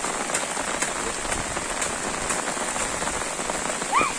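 Steady rain falling on a wet dirt track and the foliage around it, with regular light splashing steps about twice a second that fade out halfway through. A brief rising-and-falling call comes near the end.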